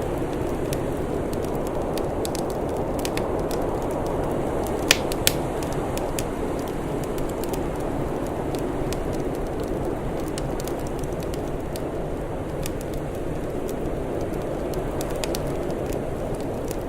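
Wood fire crackling, with scattered sharp pops, two louder ones about five seconds in, over a steady low rushing noise.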